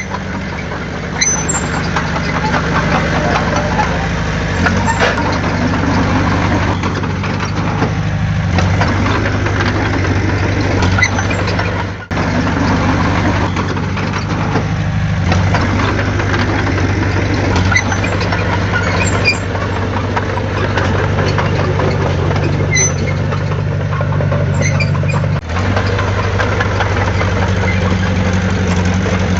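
Heavy construction machine's diesel engine running steadily, with a few short high clinks of metal; the sound drops briefly twice, about 12 and 25 seconds in.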